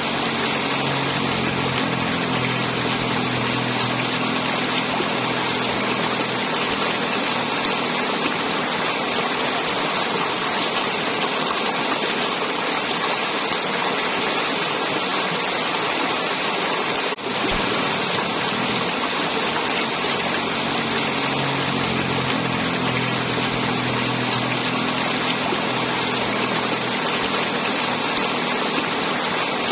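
River water flowing and gurgling steadily as an even rush of noise, with a faint low hum underneath for long stretches and a split-second dropout about seventeen seconds in.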